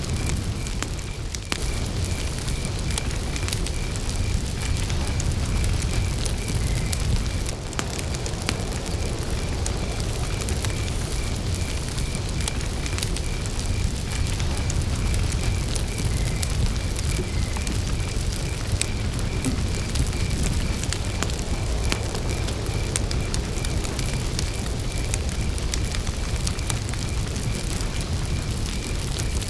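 Campfire burning, wood crackling with frequent sharp pops over a steady low roar. A cricket chirps throughout in a high, evenly repeated pulse.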